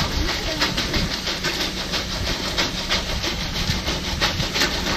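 An engine-driven machine running steadily, with a low hum and a fast, uneven rattle of clicks and clanks over it.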